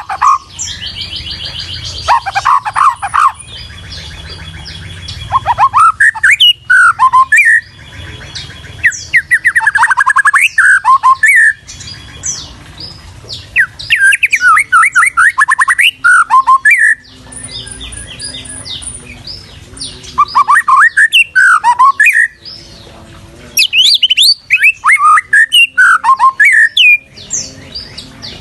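White-rumped shama (murai batu) singing: loud phrases of rapid, sweeping whistled notes lasting a second or two each, repeated again and again, with quieter high chirping between phrases.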